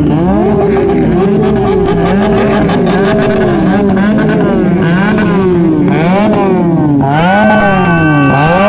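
Superbike engine being revved hard, its pitch rising and falling in quick throttle blips about once a second, then held high and steady for over a second near the end.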